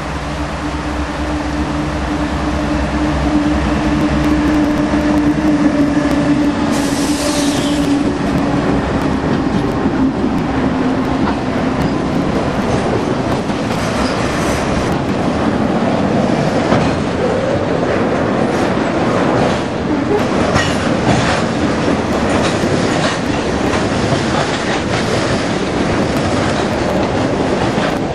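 Norfolk Southern GE C40-9W and C40-9 diesel locomotives drifting downgrade past with a steady engine hum, then a long string of freight cars rolling by, their wheels clacking over the rail joints and a bridge. A brief high wheel squeal comes about seven seconds in.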